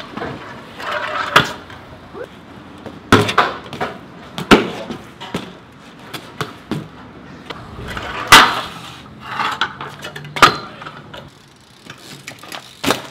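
BMX bike being ridden on concrete: the tyres roll with a rushing sound, broken by several sharp knocks and slaps of landings and hits, the loudest about eight seconds in.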